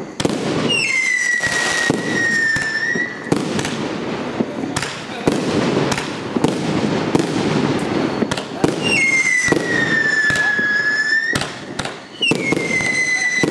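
Consumer fireworks battery (cake) firing a rapid series of shots. Three times a long, steady, high whistle rises over the shots, lasting two to three seconds each.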